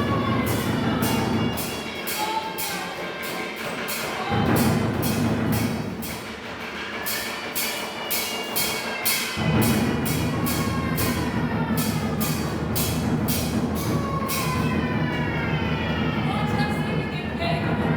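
Live percussion music: sharp, regular strikes, about three a second, over gliding pitched tones. A dense low drumming comes in about halfway through, and the strikes stop near the end.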